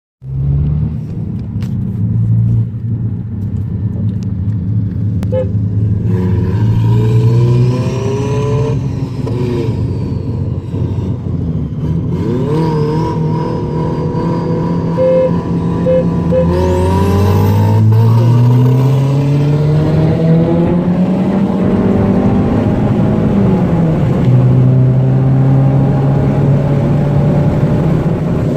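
Turbocharged four-cylinder car engine pulling through a roll race: it holds a steady note at first, then climbs in pitch under full throttle, dropping sharply at gear changes about a quarter of the way in and near the end before climbing again.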